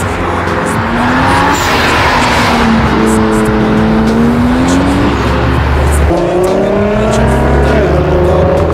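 Toyota Supra MK4's straight-six engine under hard acceleration, its note climbing and sagging. About six seconds in the pitch drops suddenly and climbs again, as at an upshift.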